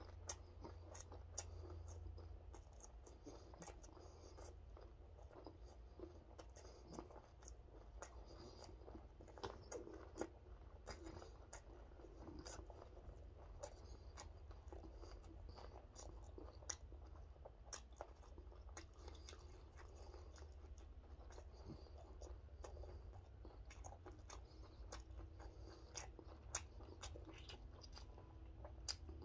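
A person chewing food with the mouth close to the microphone: quiet, wet chewing with many small clicks and light crunches, over a faint steady low hum.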